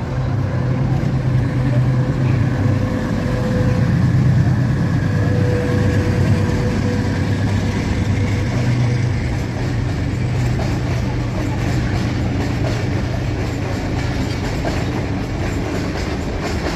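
Train running on the line: a diesel locomotive's steady low engine drone over continuous wheel-on-rail noise.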